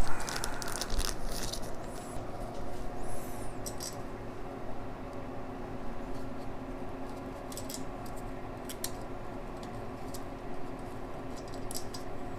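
Scattered light metallic clicks and clinks of engine parts and hand tools being handled during turbo and exhaust manifold assembly, busiest in the first two seconds, over a steady hum.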